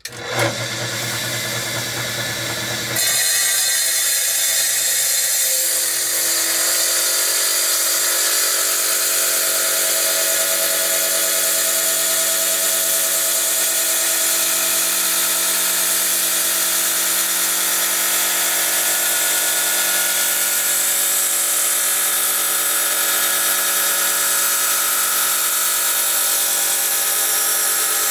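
Tile saw with a freshly sharpened diamond blade starting up, then about three seconds in cutting into hard jasper with a steady grinding that holds through the cut. The blade is cutting the stone again after being dressed with a file.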